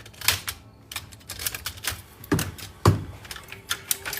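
Irregular clicking and clattering of hard electronic parts being handled and worked apart, with a few heavier knocks, the loudest near the end.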